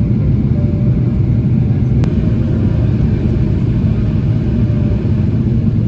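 Steady low rumble of a Boeing 777-300ER's cabin noise, its GE90 engines and airflow, with a faint steady hum and one short click about two seconds in.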